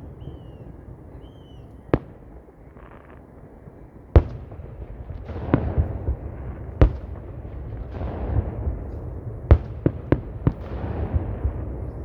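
Fireworks display: shells bursting with about eight sharp bangs at irregular intervals, several in quick succession near the end. A crackling hiss trails some bursts, over a steady low rumble.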